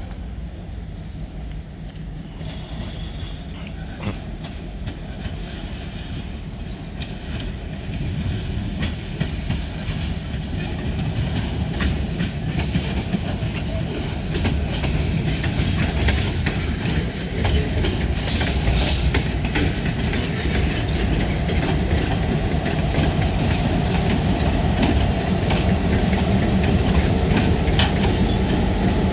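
Diesel-hauled freight train rolling on the rails with a low engine rumble and repeated wheel clicks over the rail joints, growing steadily louder as it comes closer.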